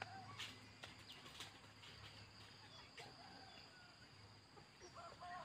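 Quiet outdoor near-silence with a few faint, short chirps from small birds and scattered light clicks.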